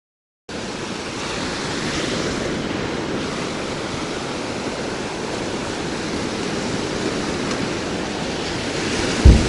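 Surf breaking on a sandy beach, a steady wash of wave noise with some wind, starting abruptly about half a second in. A low thump near the end.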